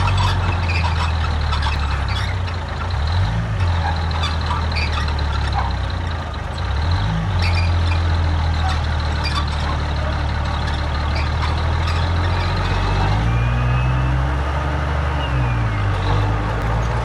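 Heavy diesel engine of an earthmoving machine running under load, its pitch dipping and picking back up a few times as the engine speed changes, with scattered clanks over it.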